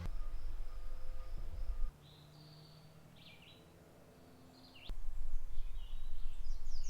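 Low rumble of wind on the microphone, which drops away for about three seconds in the middle, while small birds chirp in the quieter stretch.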